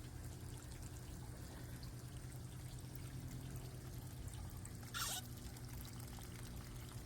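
Faint running or trickling water over a steady low hum, with a short hiss about five seconds in.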